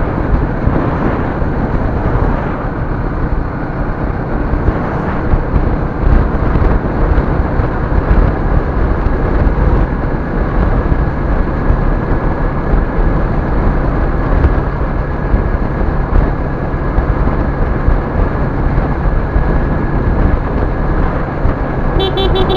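Steady road and engine rumble of a moving vehicle, picked up by a dashcam microphone, with a short electronic beep right at the end.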